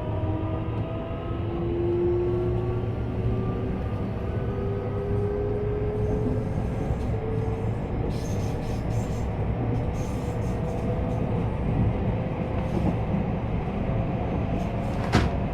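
JR West 321 series electric train running, heard inside the car: the traction motor whine rises slowly in pitch as the train accelerates, over a steady rumble of wheels on rail. A single sharp click near the end.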